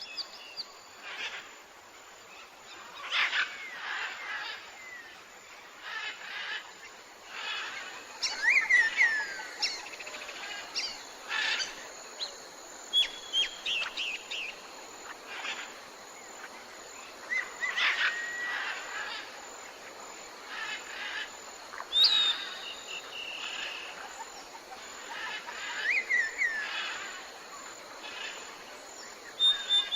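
Tropical forest soundscape: several birds call and chirp, with short whistled notes gliding up and down in pitch, over a steady background of insects.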